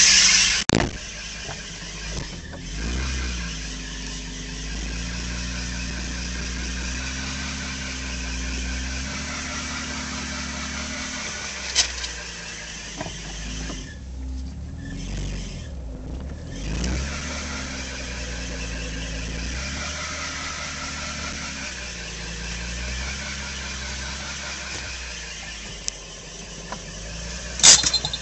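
1992 Nissan 300ZX's 3.0 V6 engine running, its pitch shifting slowly up and down, under a steady high-pitched hiss. This is the owner's unexplained noise, which stays the same whatever the revs. A loud squeal stops with a click just after the start, and there is a loud brief burst near the end.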